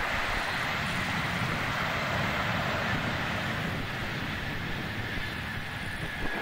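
Distant Intercity train hauled by two electric locomotives passing at speed: a steady rushing rumble of wheels on rail that eases off slightly toward the end.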